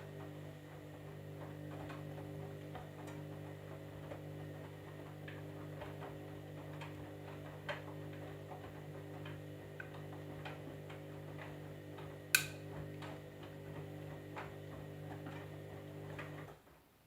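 Candy washing machine running with a steady low hum and light, irregular ticking and clicking, one sharper click about twelve seconds in. The hum cuts off suddenly near the end.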